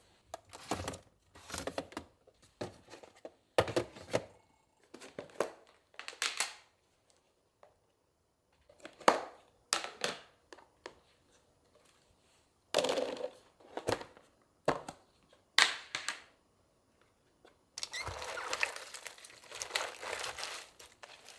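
Kitchen handling noises: short bursts of rustling and crinkling, like plastic packaging being handled, separated by brief pauses. Near the end comes a longer continuous rustle.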